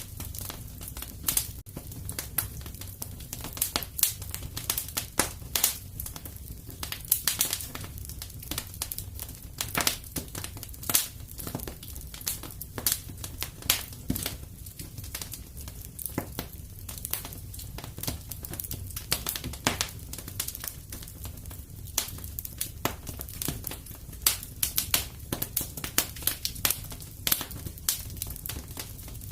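Wood fire crackling in a fireplace: a continuous stream of irregular sharp pops and snaps over a steady low rumble.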